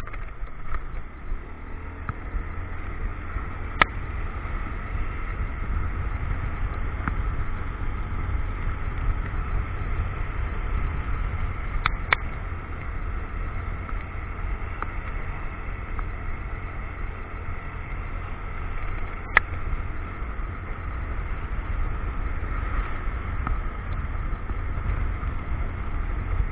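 Motorcycle running along the road, heard through an action camera as a steady low rumble of engine and wind on the microphone, with a few sharp clicks now and then.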